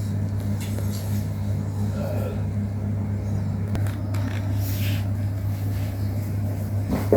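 A steady low hum runs throughout, with a few faint clicks and brief higher sounds over it, one of them rising just before the end.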